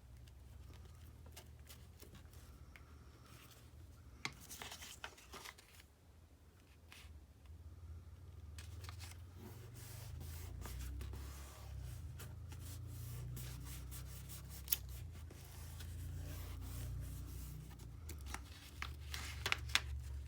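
Craft paper being handled: rustling and rubbing, with a few sharp clicks about four seconds in and again near the end, over a low steady hum.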